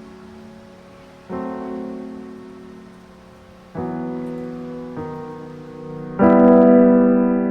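Slow piano background music: sustained chords struck every second or two and left to ring and fade, the last one louder.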